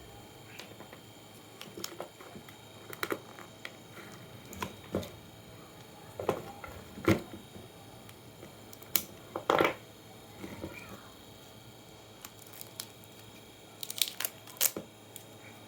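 Hands handling tools and small parts: irregular clicks, knocks and short rustling scrapes, with the loudest clicks about seven seconds in, around nine to ten seconds in, and in a cluster near the end.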